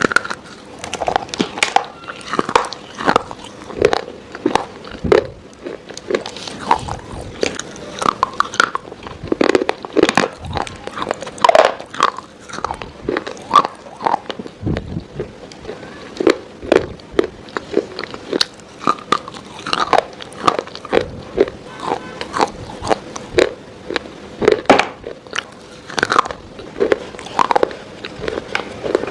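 Close-miked biting and chewing of crunchy food: a steady, irregular run of loud crunches, about one or two a second.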